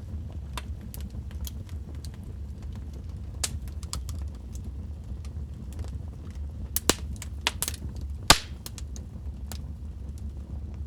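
Wood fire crackling in a fireplace: a steady low rumble of the flames with scattered sharp pops and snaps, a few louder pops bunched about seven to eight seconds in.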